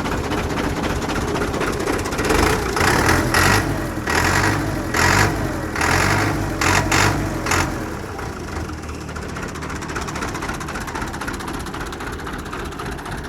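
Fiat 640 tractor's diesel engine running, blipped up in several short bursts of revving between about two and eight seconds in, then settling back to a steady idle.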